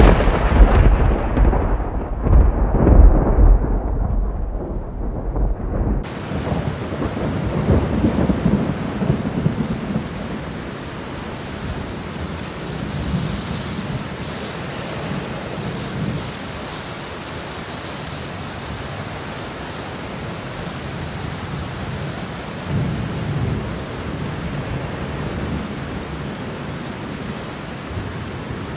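Homemade thunderstorm sound effect: a loud thunderclap rolls into a long low rumble that dies down about ten seconds in, leaving steady heavy rain. A fainter rumble comes about two-thirds of the way through.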